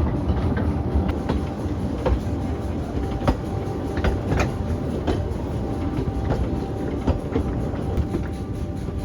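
Narrow gauge railway carriage rolling along the track: a steady low rumble with irregular clicks of the wheels over rail joints, roughly one a second.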